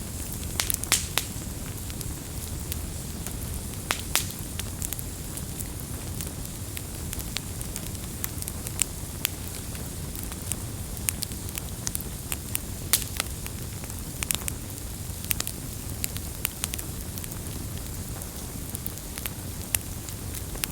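Wood fire burning with a steady low rumble and frequent irregular crackles and sharp pops.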